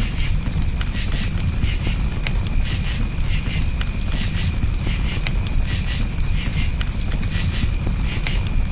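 Crickets chirping in short repeated pulses, about two a second, over a campfire with sharp scattered crackles and a low steady rumble of flames.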